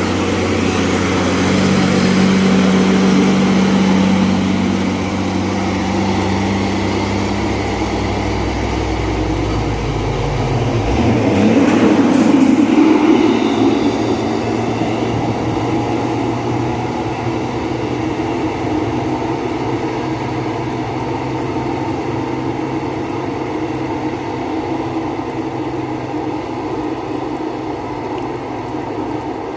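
Dump truck diesel engines running as the trucks pass through a bend. It is loud throughout, with a steady engine drone that drops away about 11 s in, then a louder swell of engine and tyre noise about 12 s in as a truck goes by.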